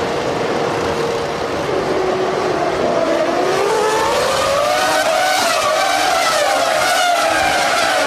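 Formula One cars' V10 engines running, one steady note at first, then an engine's pitch climbing over a few seconds and wavering near the top as it revs.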